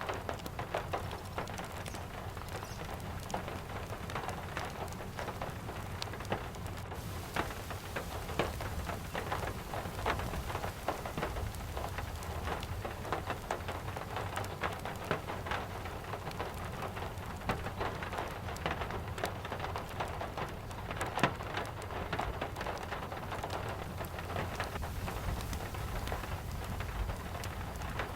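Steady rain falling on a surface, with dense sharp ticks and crackles throughout over a low, even rumble.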